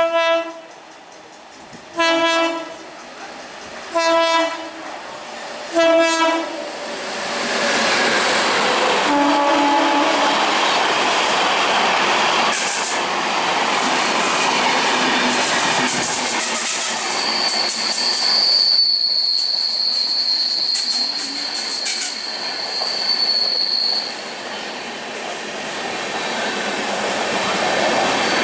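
An Indian Railways express train's horn sounds four short blasts about two seconds apart, then one lower blast. The train then passes at speed, a loud steady rush with wheels clattering over rail joints, and a high steady whine for several seconds in the middle of the pass.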